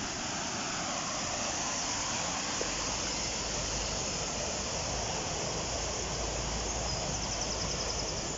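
Steady rush of river water flowing over a waterfall. A faint, high, rapid trill comes in near the end.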